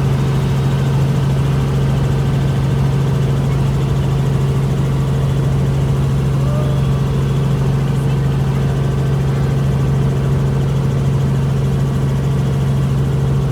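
Helicopter drone: a loud, steady, unbroken hum from the engine and rotors.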